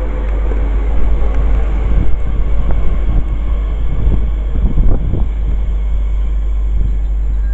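Wind buffeting the microphone in loud, irregular gusts, strongest a couple of seconds in, over the fading rumble of a passing train.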